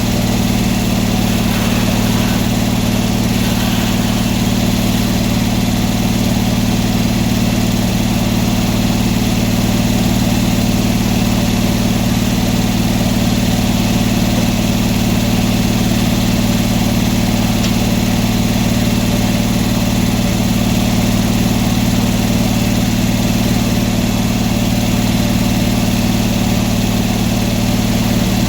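Portable sawmill's engine running steadily at an even speed, with no change in pitch or load.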